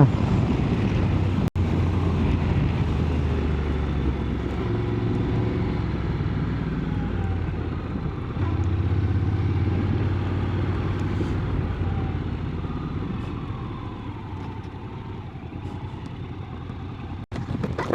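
Motorcycle engine running under way with road and wind noise. The engine note steps up about eight seconds in, then drops and grows quieter toward the end as the bike eases off.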